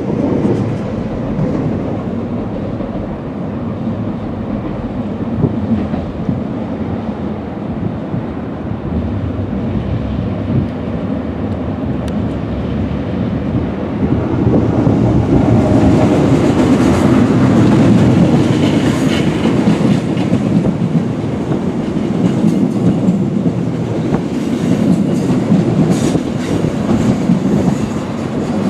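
Fertagus Class 3500 double-deck electric multiple-unit trains running past, a steady rumble of wheels on track that grows louder about halfway through, with a clickety-clack of wheels clattering over the rails.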